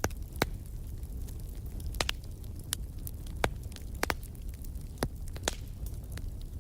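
Wood fire in a fireplace crackling: irregular sharp pops and snaps, about ten of them, over a steady low rumble.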